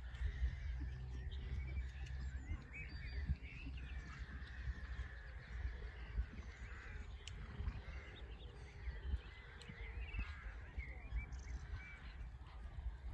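Small birds singing and chirping in many short calls over a steady low rumble of wind on the microphone.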